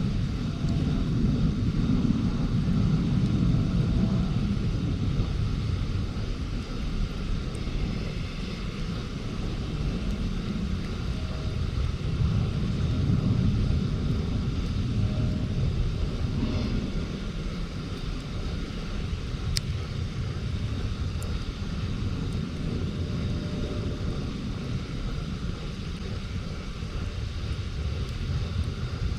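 A low rumble that swells and fades over several seconds, with two sharp pops from the wood campfire about two-thirds of the way through.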